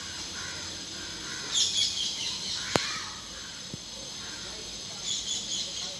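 Birds chirping in two short bursts, with a single sharp click between them.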